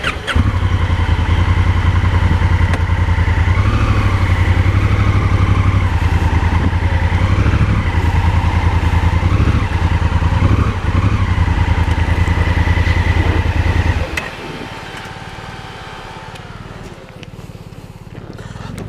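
Motorcycle engine running close and loud, its revs rising and falling a little, then dropping away sharply about fourteen seconds in.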